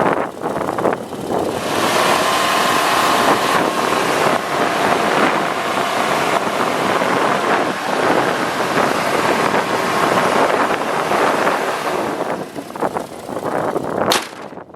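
Wind buffeting the microphone, a loud, steady rushing noise, with a sharp click near the end.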